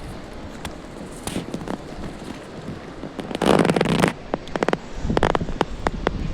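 Crackling, rustling noise on the microphone with many sharp clicks and a louder rustling burst about three and a half seconds in, the kind of wind buffeting and handling noise a handheld camera picks up while walking.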